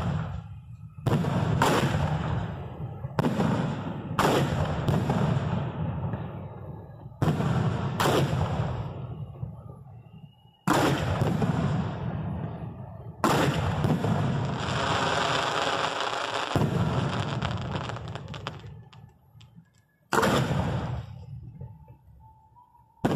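Fireworks aerial shells fired from close range at the firing site: about ten sharp booms a second or more apart, each trailing off in echo, with a longer continuous stretch of noise around the middle.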